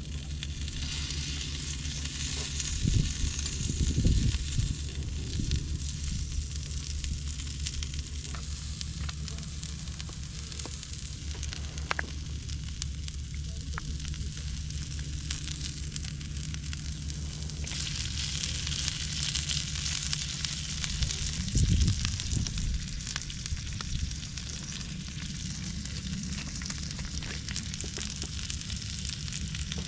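Food sizzling as it grills over heat, a steady hiss that grows fuller partway through, with a few low bumps.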